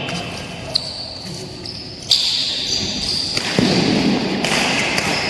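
Badminton being played on an indoor court: sharp racket strikes and thudding footsteps in an echoing hall, with a louder impact about two seconds in and another past the middle.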